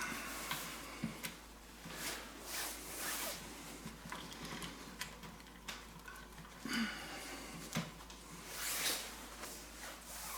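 Faint, intermittent rubbing and scraping of a heat-softened PVC elbow being pushed down onto a trolling motor shaft, with a few light clicks.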